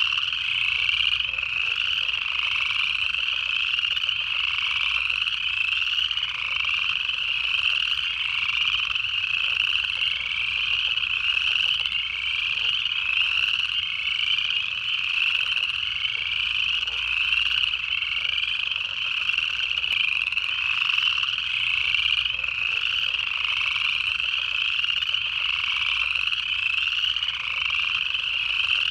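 Dense chorus of upland chorus frogs at a breeding pond, their rising trilled calls overlapping without a break.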